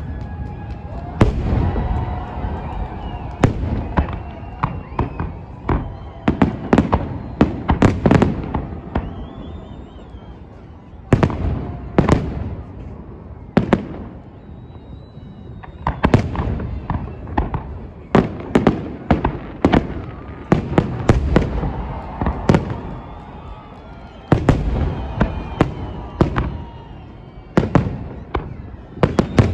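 Aerial fireworks salute: shells bursting in rapid, irregular volleys of sharp bangs, with short lulls between volleys.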